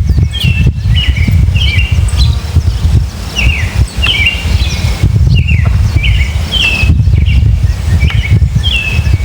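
Birds chirping: a steady run of short, hooked chirps, one or two a second, over a loud low rumble.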